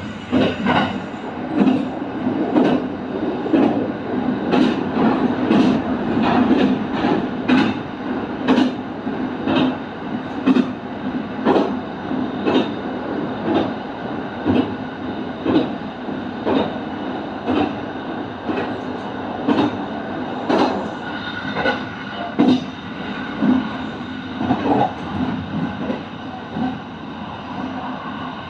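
Kintetsu train running at speed, its wheels clicking over rail joints about once a second over a steady rumble and hum.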